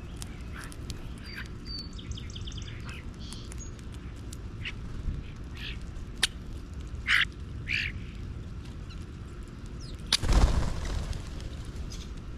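Bird calls: a handful of short calls, two louder ones a little past the middle, over a low steady rumble. A sharp click comes about six seconds in, and a loud rushing thump about ten seconds in, the loudest sound here.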